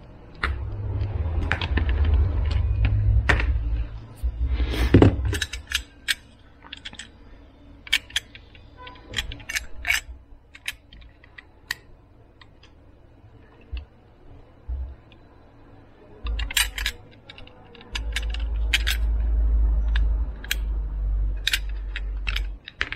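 Many separate sharp clicks and light knocks of small hard parts being handled, with stretches of low rumble from handling.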